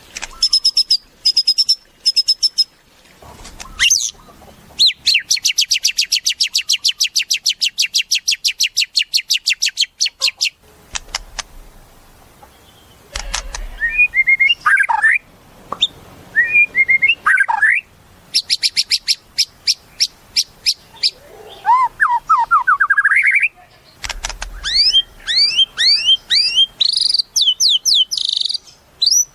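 White-rumped shama (murai batu) singing a loud, varied song. Long, very fast rattling trills alternate with sharp whistled notes and runs of quick slurred whistles that rise or fall in pitch, with short pauses between phrases.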